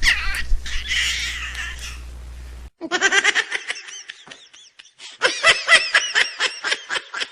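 A baby laughing in quick, high-pitched giggles, in two runs with a short break between them. Before the laughter there is a noisier stretch over a low hum that cuts off abruptly about two and a half seconds in.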